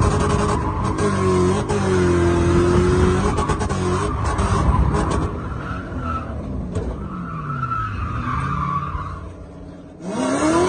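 BMW E30's swapped-in 4.0 L V8 revving under throttle while drifting, its pitch rising and falling, with tyres skidding. In the second half the engine winds down and fades, then revs hard again near the end.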